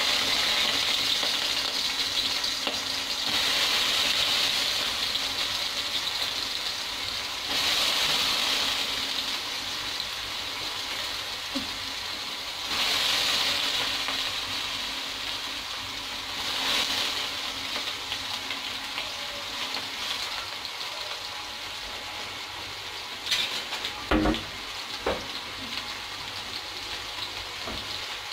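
Soaked soya chunks sizzling and sputtering in a little hot oil in a kadhai. The sizzle flares up several times as more chunks go in, then settles to a steadier, quieter frying. A few knocks come near the end.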